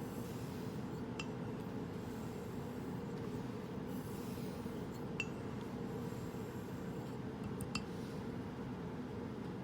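Straight razor being honed on a wet whetstone: quiet strokes over a steady low background noise, with three light clicks of steel on stone.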